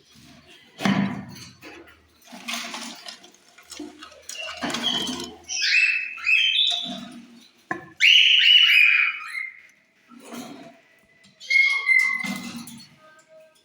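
Lovebirds in an aviary giving short, sharp chirping calls, clustered in runs midway through and again near the end, between bursts of rustling noise.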